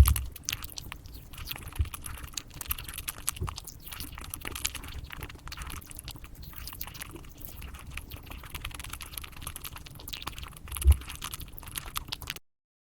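Close-miked eating sounds of chocolate being bitten and chewed, sped up so they run as a dense patter of rapid clicks and crunches. A low thump comes about eleven seconds in, and the sound cuts off suddenly near the end.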